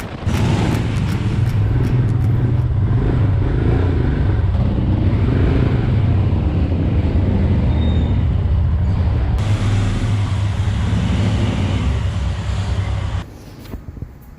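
Royal Enfield Himalayan single-cylinder motorcycle engine running steadily on the road, with wind and road noise. The sound shifts abruptly about nine seconds in and drops away sharply a second before the end.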